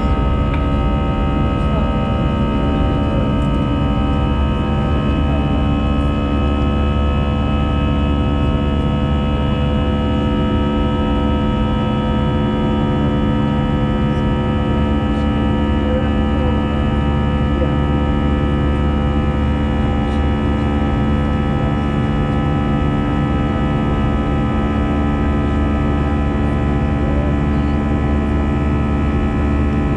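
Steady cabin drone of an Airbus A320-214 in the climb after takeoff, its CFM56 engines and airflow making a loud even rumble with several steady whining tones held over it.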